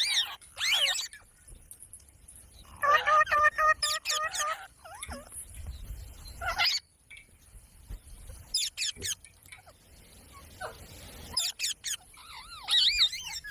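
A parrot calling in several separate bursts: a held, even-pitched squawk a few seconds in, and quick sweeping chirps and whistles near the start, in the middle and toward the end, with quiet pauses between.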